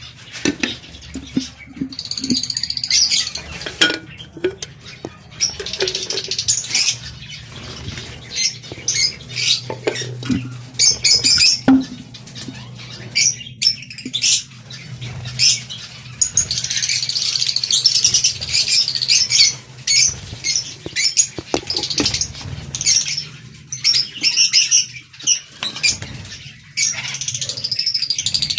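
Lovebirds chirping and squawking again and again in short high calls, with many short clicks and rustles, over a steady low hum.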